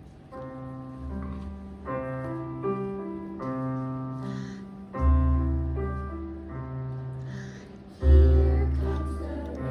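Music played on a keyboard instrument: a melody of held notes over low bass notes, with the loudest bass notes coming about five and eight seconds in and fading away.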